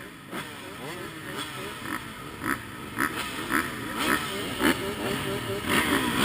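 Several motocross motorcycle engines revving together, their pitches rising and falling against one another in quick blips, the overall sound growing louder toward the end.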